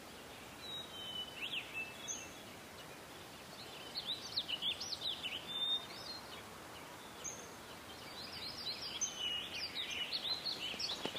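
Birds chirping and singing over a steady background hiss. The calls come in clusters, about a second or two in, again around four to six seconds in, and from about eight seconds on.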